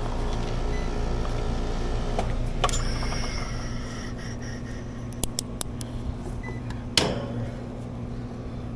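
Steady hum of running air-conditioner condensing units, heavier in the first couple of seconds and easing after. A few light clicks and a sharp knock about seven seconds in.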